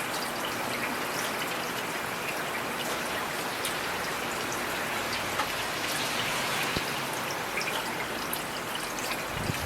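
Steady rainfall, with many individual drops ticking sharply close by over an even hiss of rain. A short, low rumble swells near the end.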